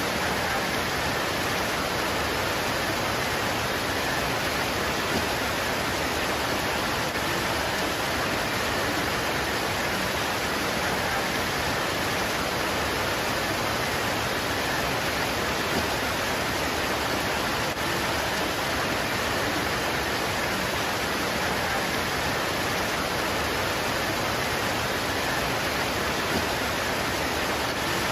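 Steady heavy rain pouring on leaves, an even hiss with no let-up.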